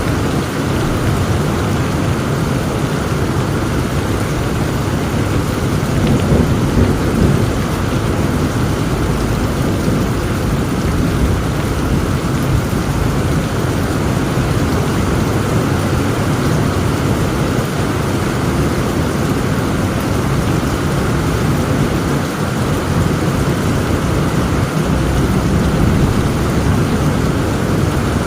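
Heavy rain falling steadily with low thunder rumbling underneath; the rumble swells briefly about six seconds in and again near the end.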